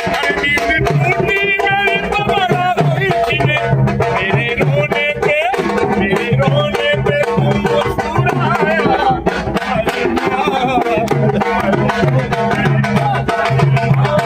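Live Indian folk music: a voice singing a wavering melody over a steady hand-drum rhythm.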